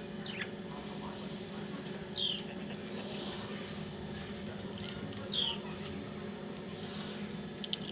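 Budgie giving two short, falling chirps about three seconds apart, with faint scattered clicks of its beak nibbling coriander, over a steady low hum.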